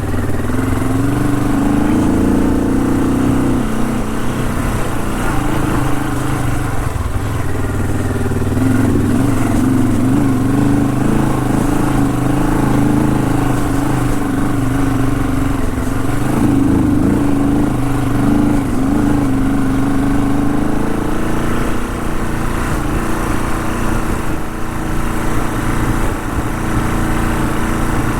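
Honda CL450's parallel-twin engine running under way, the revs rising and falling unevenly, then settling lower and steadier about two-thirds of the way through.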